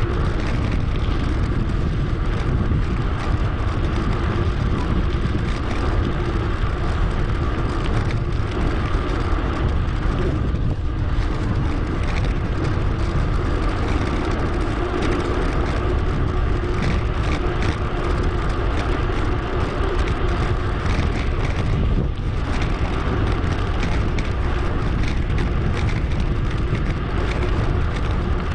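Steady wind rushing over an action camera's microphone while riding a bicycle, heaviest in the low end.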